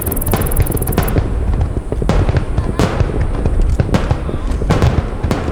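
Aerial fireworks shells bursting in rapid succession: many sharp bangs, some overlapping, over a continuous low rumble of booms.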